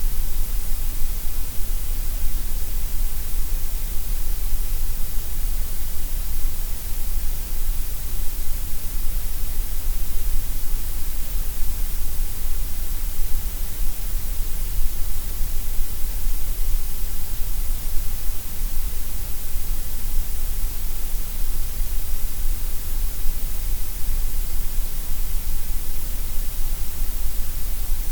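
Gray noise: a steady, unchanging synthetic hiss that is stronger in the deep lows and the highs than in the middle range.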